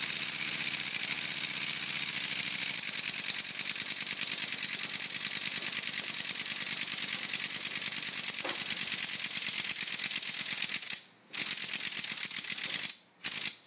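Lego Technic pneumatic V4 engine running fast on compressed air: a rapid, even clatter of its valves and cylinders with a strong air hiss. About eleven seconds in it cuts out abruptly, then runs in short bursts with sudden stops.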